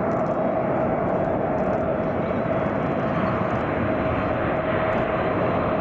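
Boeing 747 jet engines during landing: a steady, loud rush of noise with a held mid-pitched whine.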